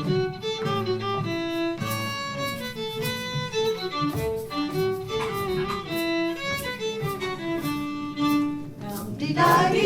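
Folk group playing a lively fiddle tune: a fiddle runs a quick melody of short notes over string accompaniment. Near the end, voices join in singing "dum dee di dee diddly doo".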